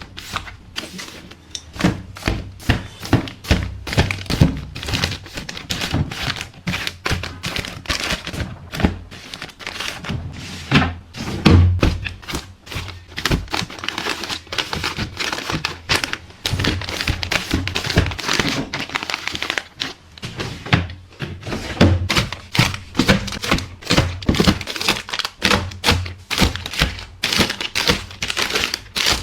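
Plastic containers and packaging being handled: many irregular knocks and taps as items are set down, mixed with plastic crinkling.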